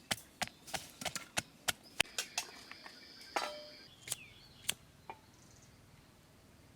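Kitchen knife chopping chili and garlic on a cutting board, sharp strokes at about three a second, with a brief scrape a little after three seconds in. The chopping stops about five seconds in.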